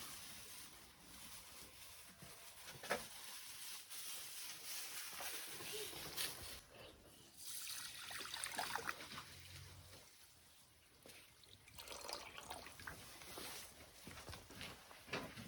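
Water trickling and splashing, with scattered light clicks and knocks.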